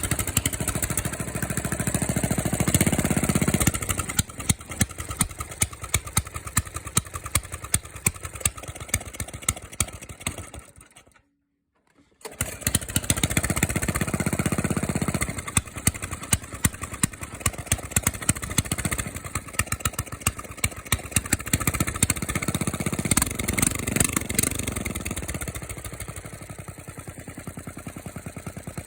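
Small gasoline engine with a choke running with throttle blips, loud and pulsing; it dies about eleven seconds in and is restarted a second later, then runs on with more blips. It is being run rich, blowing black smoke.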